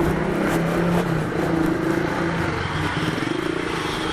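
Motor vehicle engine running steadily close by, its pitch shifting slightly about three seconds in.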